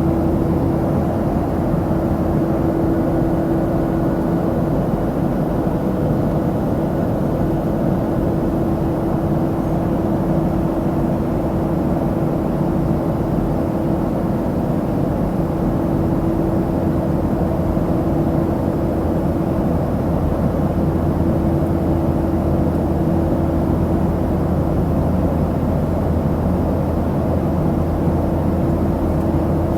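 Steady in-flight cabin noise of a Boeing 737-700: an even rush of air with the constant drone of its CFM56-7 engines, including a steady hum.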